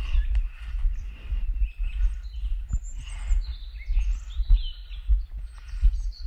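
Small songbirds chirping and trilling, several calls overlapping, over a low uneven rumble of wind buffeting the microphone.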